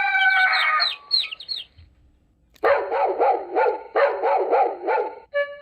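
A rooster's crow tails off about a second in, followed by a few short chick peeps. After a brief pause, a dog barks in two quick runs of rapid barks.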